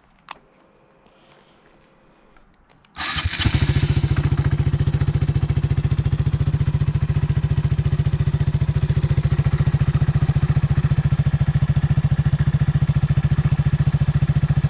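Honda Grom's 125 cc air-cooled single-cylinder four-stroke engine starting about three seconds in, catching almost at once, then idling steadily with an even beat. This is its first start after an oil change.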